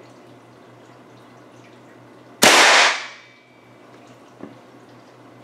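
A single shot from an AirForce Condor .25 PCP air rifle about two and a half seconds in: a sharp crack with the pellet hitting an aluminum pan and punching clean through, the pan ringing briefly with a thin tone as it dies away. A faint click follows about two seconds later.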